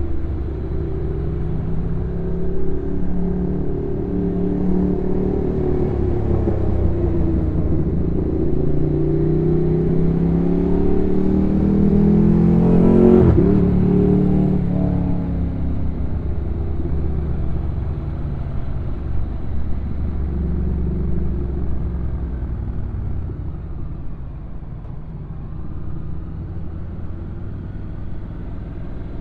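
Honda NC750X DCT's parallel-twin engine running as it rides downhill, its pitch rising and falling with throttle and automatic gear changes. The sound swells louder about halfway through.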